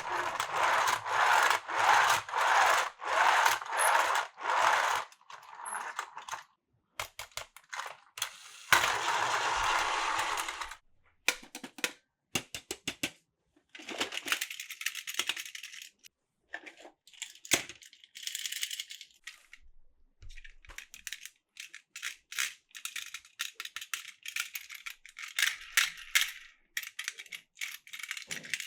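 Small hard plastic toy parts rattling and clicking: bursts of rattling, then a run of short sharp clicks and brief rattles.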